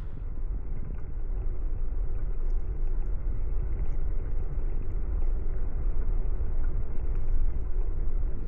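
Steady low rumble of wind and road noise picked up by a camera riding on a moving bicycle, with traffic noise mixed in.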